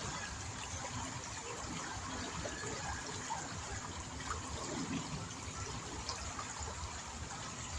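Steady trickle of running water, with small scattered ticks and gurgles.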